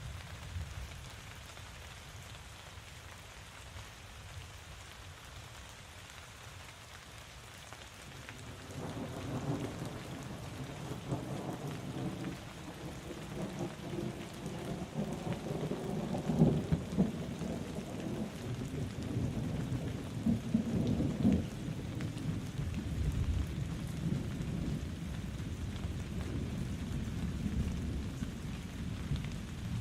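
Steady rainfall. About a quarter of the way in, thunder begins rumbling low and rolls on to the end, swelling loudest twice around the middle.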